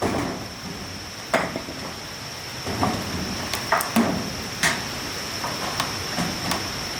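About ten irregular hard knocks and clatters, like objects being struck or set down, over a steady high-pitched tone.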